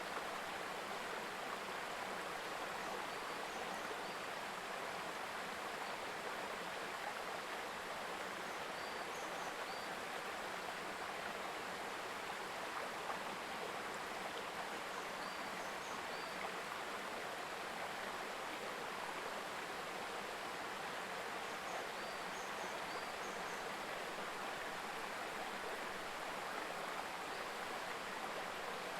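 Babbling mountain stream: a steady rush of water over rocks, with a few faint high chirps now and then.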